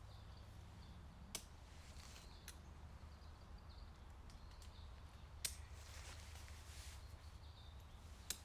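Quiet outdoor ambience with a low steady rumble and faint high chirps, broken by three sharp clicks a few seconds apart.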